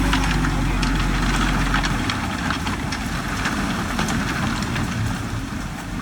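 Heavy diesel construction machinery running. A steady low engine hum for about the first two seconds gives way to a rougher rattle with scattered clinks and knocks.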